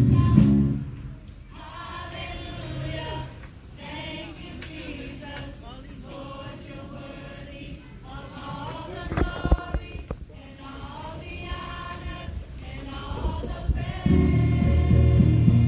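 Church choir singing gospel unaccompanied after the band drops out about half a second in, with a few knocks about nine and a half seconds in; the band, with bass and guitar, comes back in near the end.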